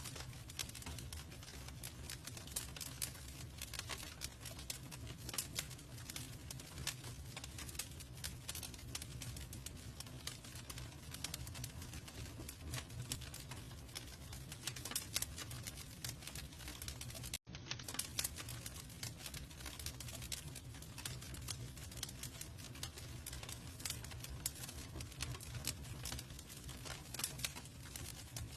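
Campfire crackling, a steady stream of small irregular pops and snaps over a low steady rumble. The sound cuts out for an instant about seventeen seconds in.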